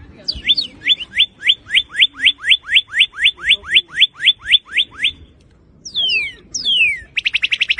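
Northern cardinal singing: a long run of about sixteen quick upslurred whistles, then two long down-slurred whistles, then a very fast trill near the end.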